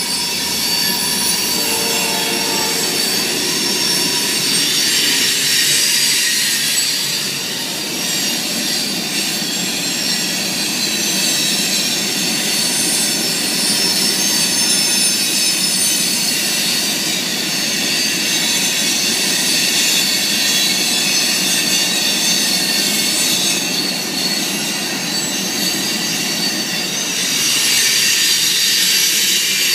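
Freight cars of a Kanawha River Railroad train rolling past at close range: a steady rumble of steel wheels on the rails, with a high metallic wheel squeal ringing above it.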